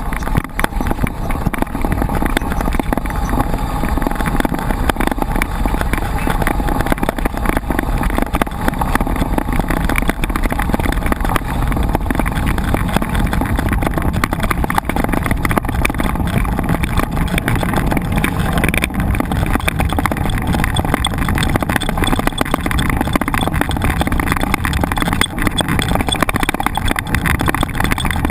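Continuous rumble and rattle of a mountain bike being ridden over rough ground, with wind buffeting the microphone.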